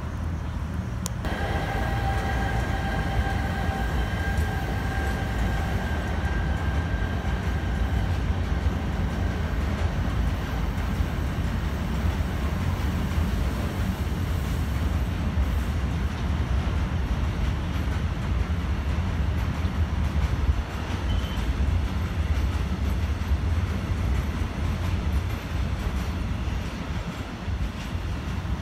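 Freight train rolling past, a steady deep rumble of wagons on the rails throughout. A sharp click about a second in, after which a faint, steady high-pitched whine runs under the rumble and fades out by about ten seconds.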